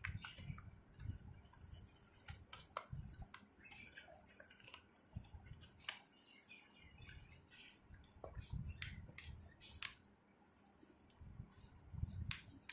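Sheet of paper being handled and folded by hand: faint, scattered crisp rustles, creases and small taps.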